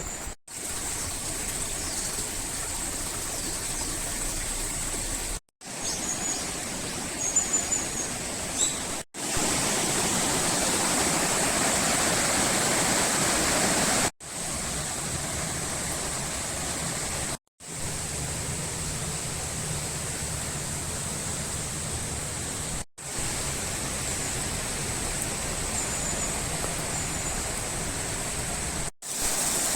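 Rushing river water, a steady noise cut off briefly several times between short clips. A few short high chirps of birds come in twice, and a low hum joins in one stretch in the middle.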